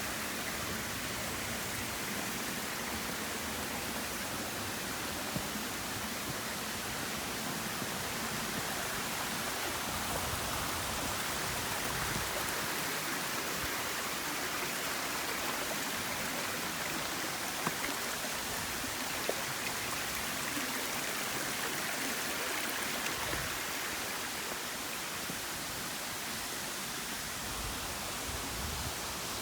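Steady rush of falling and flowing water, an even hiss with a few faint ticks.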